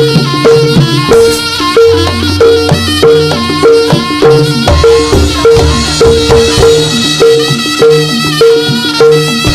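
Instrumental Javanese traditional music for a horse dance, with no singing. Mallet-struck tuned percussion repeats a note about twice a second over drums.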